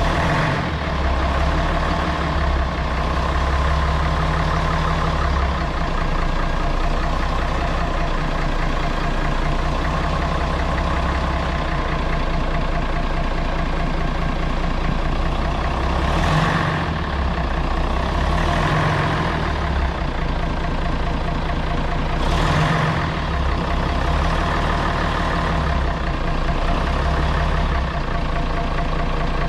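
Scania BR111 bus's diesel engine running steadily with a deep rumble, with a few short rushing swells over it partway through.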